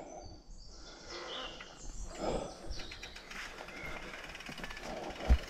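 Birds chirping over low outdoor background noise, with a brief swell of noise about two seconds in and a single sharp thump near the end.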